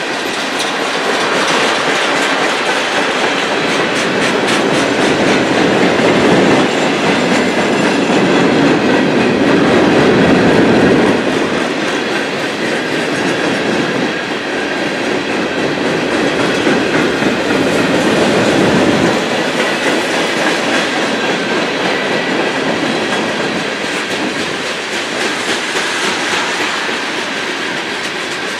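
Railroad cars rolling past on steel rails, with wheels clacking over the rail joints. The sound is steady and loud throughout and swells for a few seconds in the middle.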